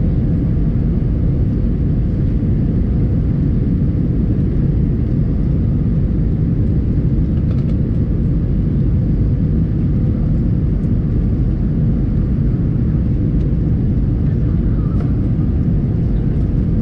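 Steady low rumble of an Airbus A321's engines and airflow heard inside the passenger cabin, with a faint steady hum running through it.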